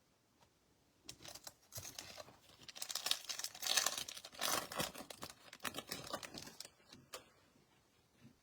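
Trading-card pack wrapper being torn open and crinkled: a dense crackle begins about a second in and stops shortly before the end, followed by a couple of light clicks.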